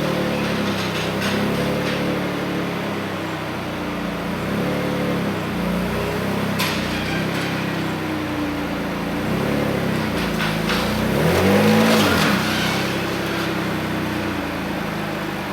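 Mitsubishi 3000GT's V6 engine running at low speed while the car creeps along, with a brief rev and fall-off about twelve seconds in. One sharp knock comes about six seconds in.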